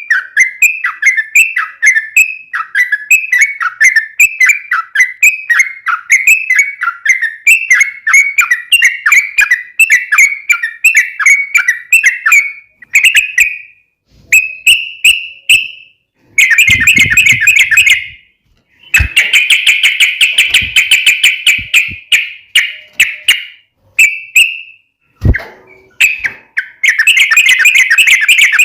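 Yellow-vented bulbul (trucuk) singing: a fast run of short chirping notes for about twelve seconds, then bursts of dense chattering song separated by short pauses. Two brief low knocks come partway through.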